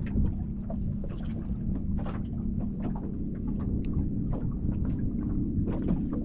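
Small fishing boat on choppy water: irregular small slaps and splashes of water against the hull over a steady low hum.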